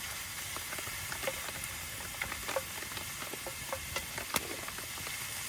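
Half-frozen ground beef sizzling in a hot cast-iron Dutch oven: a steady hiss with scattered small crackles and pops, one sharper pop about four seconds in.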